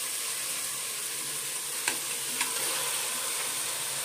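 Spiced tomato-and-onion masala sizzling steadily in an aluminium pressure cooker pot as marinated chicken goes in, with two light clicks of a metal utensil about two seconds in.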